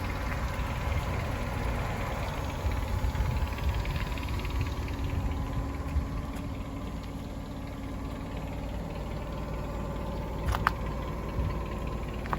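Toyota 7FGF25 forklift's engine idling steadily, with a brief sharp knock near the end.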